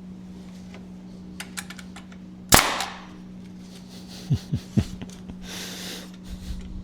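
Woodworking knocks: one loud, sharp crack about two and a half seconds in, with a few light clicks before it and three small knocks later, over a steady low hum.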